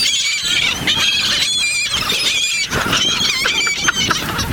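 A flock of gulls calling over one another: many overlapping high, squealing, wavering calls, unbroken throughout.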